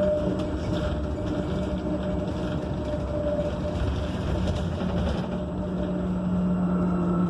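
Cabin noise of a Proterra Catalyst battery-electric bus under way: steady road and tyre rumble with a low hum from the electric drivetrain, which fades briefly and returns about five seconds in.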